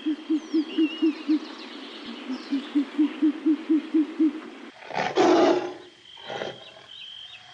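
Animal calls: two runs of short, low, evenly spaced calls, about four a second, then a loud rough call about five seconds in and a weaker one a second later. A steady high tone and a few bird chirps sit behind.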